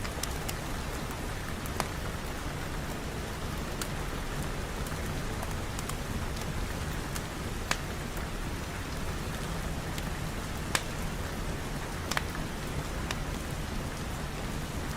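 Steady heavy rain, an even hiss with a few sharp ticks scattered through it.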